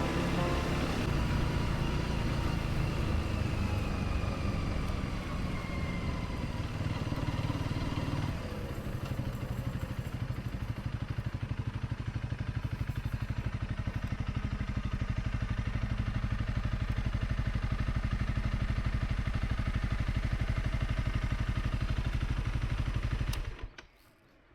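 Honda CRF250 Rally's single-cylinder engine falling in pitch as it slows, then settling into a steady, evenly pulsing idle that stops abruptly near the end.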